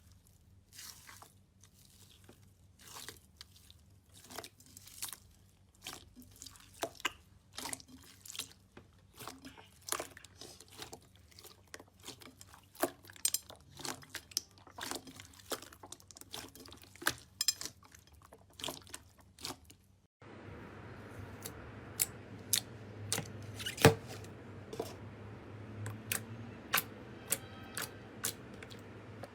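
Slime being pressed and stretched by hand, giving irregular sticky crackles, pops and squelches. About 20 seconds in, the sound changes abruptly to sharper, more widely spaced clicks and crackles over a steady low hum.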